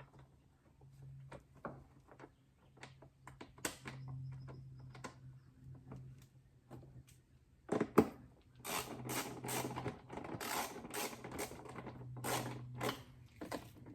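Hand ratchet clicking as bolts are done up, with scattered knocks and taps of tools and plastic bodywork being handled; the clicks come thicker and more often in the second half. A faint low hum runs underneath.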